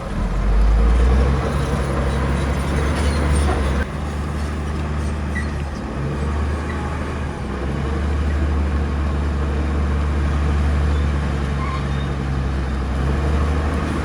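Heavy diesel engine of earthmoving machinery running steadily, a deep drone with mechanical noise over it, swelling briefly about a second in and easing slightly near four seconds.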